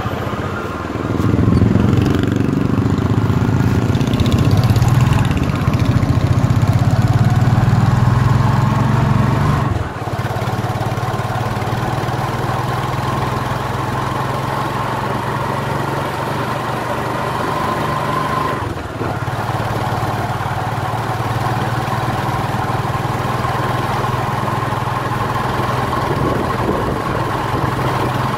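Motorcycle engine of a motorized tricycle running under way, heard from the sidecar. It pulls louder for the first ten seconds, drops back briefly twice, then runs steadily.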